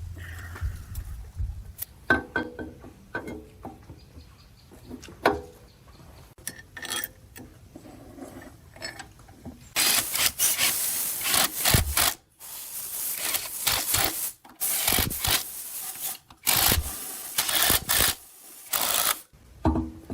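Abrasive rubbing on a workpiece, like hand sanding or filing. The first half is a scatter of light knocks and clicks. From about halfway there is a series of long, rasping strokes, each about a second, separated by short pauses.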